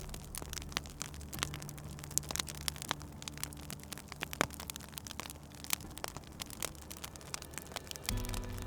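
Wood fire crackling and popping in a fireplace: many irregular sharp snaps over a soft hiss, with a low steady drone underneath.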